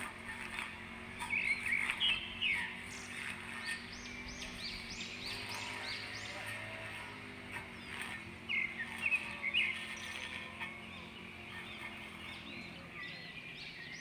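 Small birds chirping in several quick runs of short notes, over a faint steady low hum.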